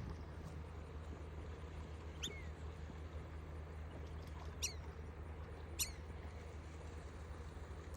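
Ducklings peeping: three short, high peeps that each slide down in pitch, about two, four and a half and six seconds in, over a low steady background hum.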